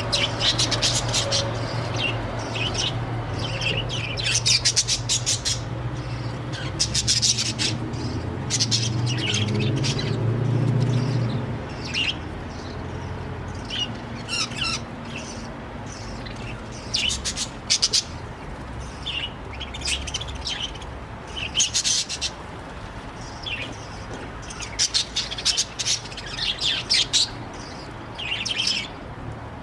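Budgerigars chirping and chattering in short, repeated bursts. A steady low hum runs underneath and stops about eleven seconds in.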